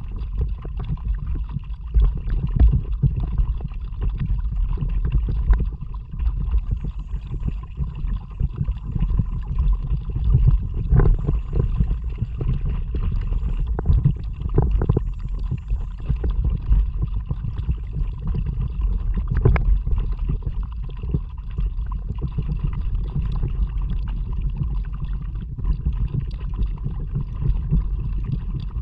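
Water sloshing and gurgling around a paddled kayak, under a steady low rumble, with a few sharper splashes.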